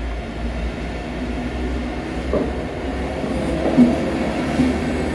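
A train running at a station: a steady low rumble, with a few short clanks, the loudest about four seconds in.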